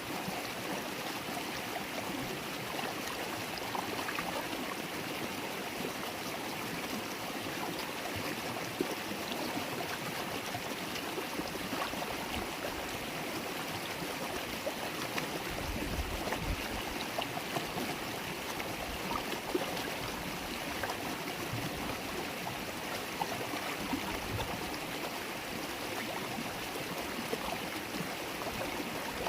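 River water flowing and burbling over stones, a steady babble with small splashes and drips throughout.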